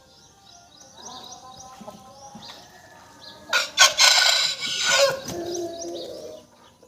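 Aseel rooster crowing once, a harsh drawn-out crow starting about halfway in and trailing off near the end, with faint small-bird chirping throughout.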